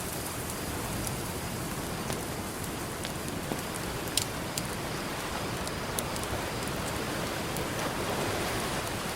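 Campfire crackling, with scattered sharp pops and snaps (the loudest about four seconds in), over a steady wash of ocean surf.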